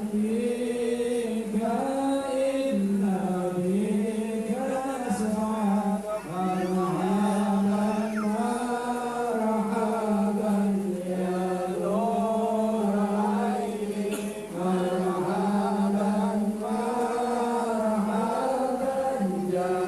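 Sholawat, the Islamic devotional chant in praise of the Prophet, sung continuously as a slow melody of long held notes that rise and fall.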